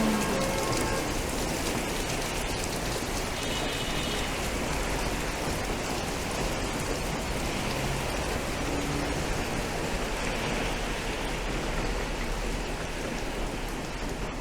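Steady rain falling on city street surfaces. A faint pitched hum fades out in the first second.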